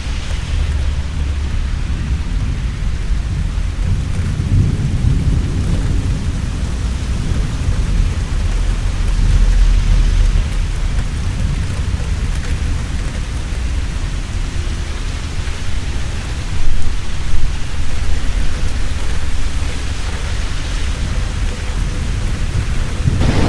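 Heavy rain falling steadily with rolling thunder rumbling underneath, the rumble swelling about a third of the way in. Two sharp, loud cracks come a little past the middle.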